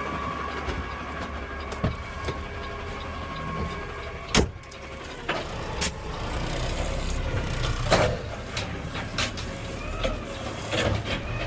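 Garbage truck running, a steady low rumble, with several sharp knocks and clanks spread through it, the loudest about four seconds in and again near eight seconds.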